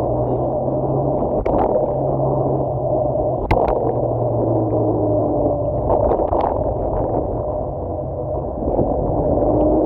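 Electric scooter riding on a wet road: a steady rumble of tyres and wind with a faint motor hum, and a few short knocks from bumps, the clearest about three and a half seconds in.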